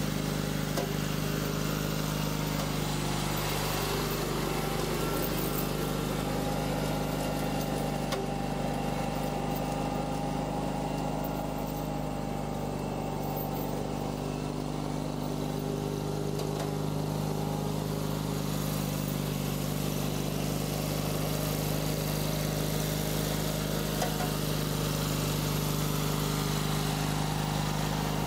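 John Deere 317 garden tractor's Kohler KT17 Series II twin-cylinder engine running steadily.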